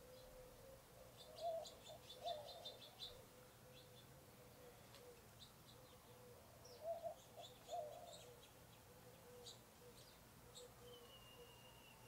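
Birds calling faintly: quick runs of high chirps, two clusters of louder, lower calls, and a drawn-out whistle near the end. A faint steady hum runs underneath.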